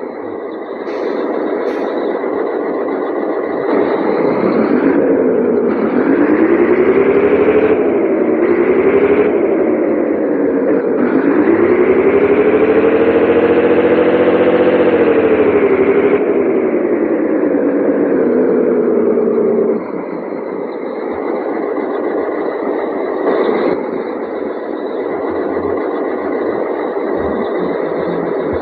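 Scania 113H truck's six-cylinder diesel engine running under load, its pitch rising and falling as the engine speed changes while the truck is driven. About two-thirds of the way through it drops to a lower, steadier drone.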